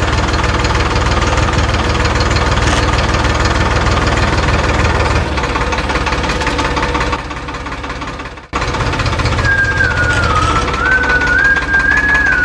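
Small tractor engine running steadily with a fast knocking beat. It gets quieter about seven seconds in, cuts out for an instant at about eight and a half seconds, then runs on as before.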